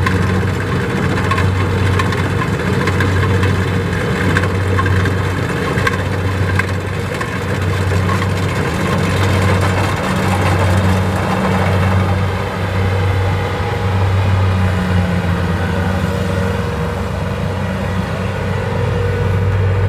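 Diesel engine of a Kubota rice-harvesting machine running steadily, a deep even hum.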